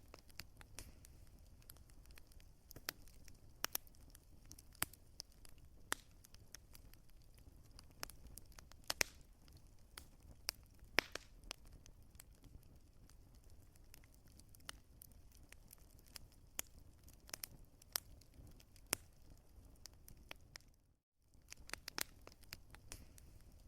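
Wood fire crackling, with irregular sharp pops over a low, steady rumble and hiss. It cuts out for about half a second near the end.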